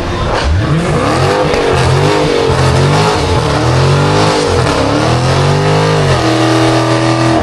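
Car engine revving up and down in repeated swings, then held steady at high revs near the end, over a hiss of tyre noise: a car doing donuts or a burnout.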